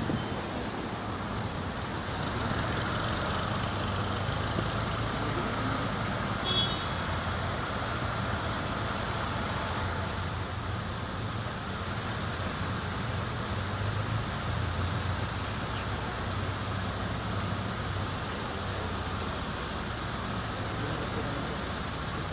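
Steady outdoor rumble of road traffic with a low hum and no firework bangs.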